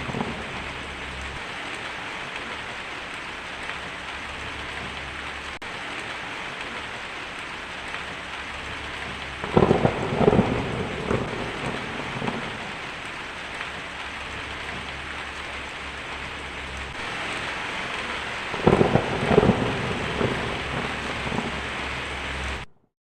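Steady heavy rainfall with rolling thunder: one rumble about ten seconds in and another near the end. The rain and thunder cut off abruptly into silence just before the end.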